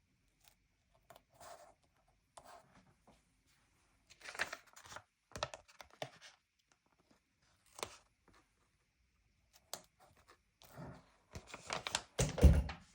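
Stickers being peeled off a backing sheet and pressed onto a paper sticker-book page: short rustles, peels and taps with pauses between them. The loudest burst, with a low thump, comes near the end.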